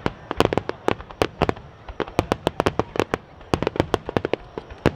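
Aerial fireworks going off in a rapid, irregular barrage of sharp bangs, several a second.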